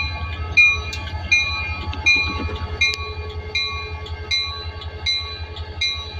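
EMD SD40-2 diesel locomotive's 16-cylinder two-stroke engine running with a steady low throb, while a bell rings over it at about three strikes a second.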